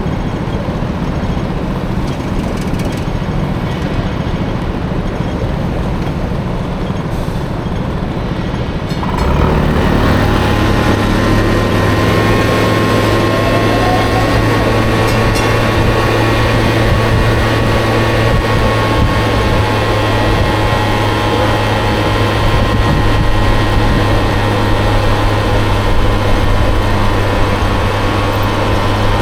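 Honda Motocompo scooter with a swapped-in Honda Dio engine, riding with road and wind rumble. About nine seconds in, the engine note rises and holds steady and louder to the end.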